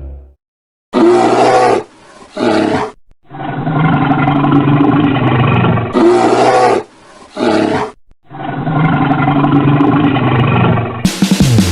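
A big cat roaring in a series of loud calls, some short and some several seconds long, with brief gaps between them. Music starts near the end.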